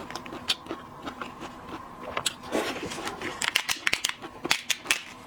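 Close, irregular clicks and crackles of seafood shells being cracked and handled, busiest in the second half.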